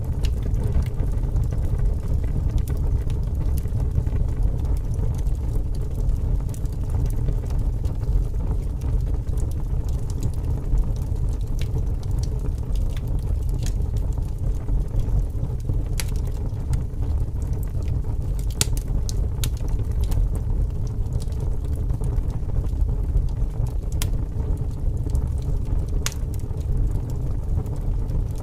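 Wood fire crackling, with scattered sharp pops, over a steady low rumble of strong wind.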